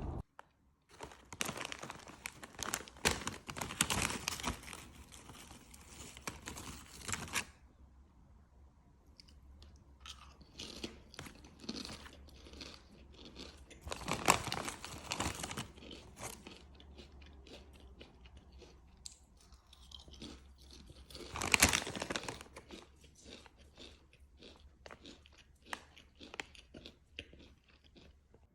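Someone chewing crunchy food close to the microphone, in irregular bursts of crunching, loudest about halfway through and again about three quarters in.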